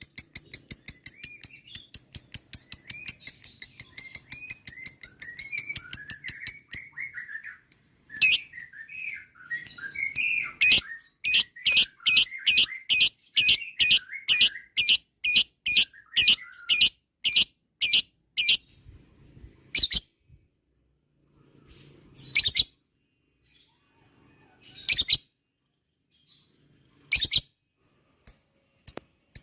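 Lovebird 'ngekek' chattering: long runs of rapid, shrill, evenly repeated notes, a second long run starting about eleven seconds in, then a few single calls, with softer twittering beneath.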